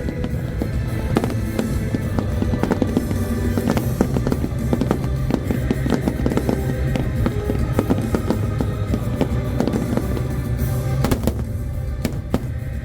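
Fireworks bursting in rapid succession, a dense stream of bangs and crackles, over music with a steady low beat.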